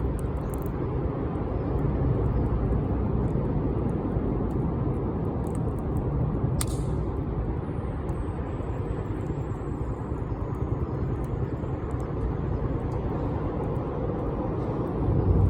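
Wood fire burning, with a steady low rush and scattered small crackles, and one sharper pop about six and a half seconds in.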